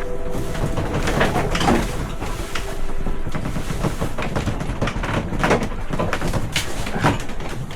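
Sailboat under way at sea: irregular creaks and knocks from the hull and gear over a steady rush of water and wind.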